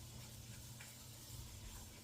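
Nearly silent room tone: a faint low rumble, a steady hum and a light hiss, with a faint click or two about midway.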